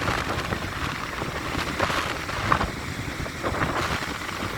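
Stormy sea surf breaking and rushing, with wind buffeting the microphone; the noise swells briefly a couple of times.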